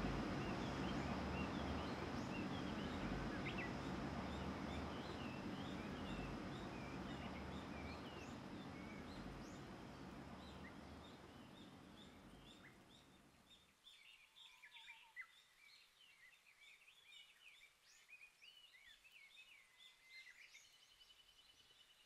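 A broad, low rumbling noise fades away over the first dozen or so seconds, leaving faint scattered bird chirps and calls.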